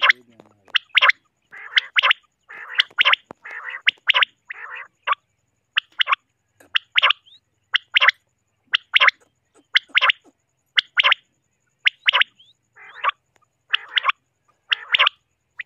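Common quail calling: sharp, quick notes repeated in short groups about once a second, with harsher rasping calls between them, mostly in the first few seconds.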